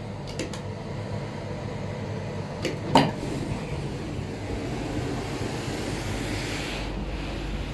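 Steady air-conditioning hum in a train toilet, with one sharp click about three seconds in.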